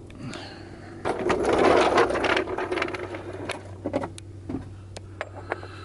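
Ratchet wrench clicking rapidly for about a second and a half, then a run of separate sharp metallic clicks and taps as tools are handled.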